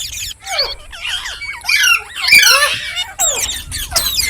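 Indian ringneck parakeet giving a rapid string of high calls, many quick rising and falling pitch sweeps one after another, loudest a little past the middle.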